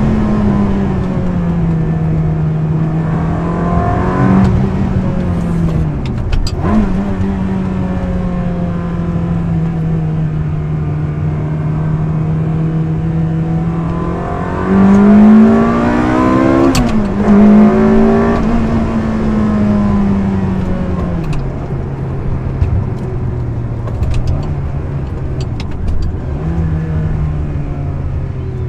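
A Ferrari 360 Spider's 3.6-litre V8 is driven under way, its note rising and falling with the throttle and dropping sharply at gear changes. The loudest moment is a climbing rev about fifteen seconds in, which drops off abruptly near seventeen seconds.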